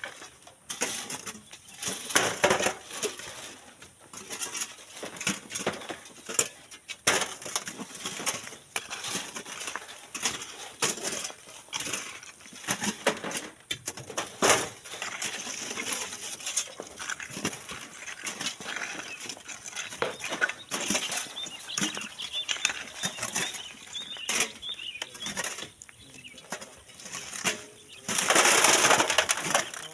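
Hand shovels scraping and scooping sand and gravel, with irregular clatter of small stones; a louder rushing spill of sand near the end.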